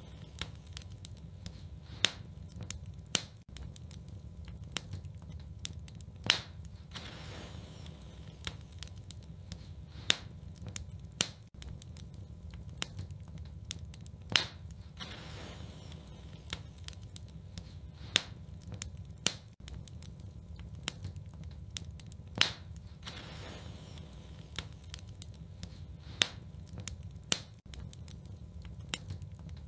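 Wood fire burning in a fireplace: a steady low rumble with many small crackles and snaps. Sharper, louder pops come about every four seconds.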